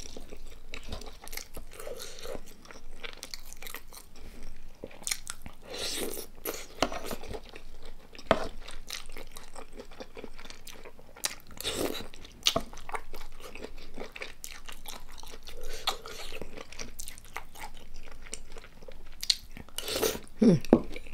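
A person chewing food close to the microphone, with crisp crunching bites at irregular intervals.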